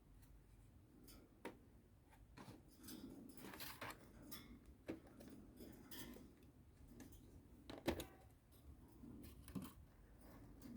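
Cockatiels pecking at and crunching cornflakes: faint, irregular crisp cracks and clicks, the sharpest about eight seconds in.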